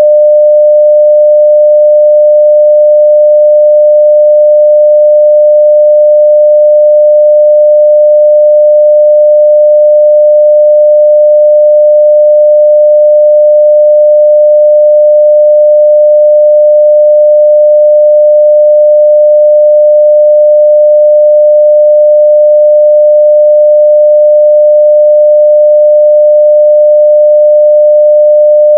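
A steady 600 Hz sine-wave test tone at full level, one pure unwavering pitch.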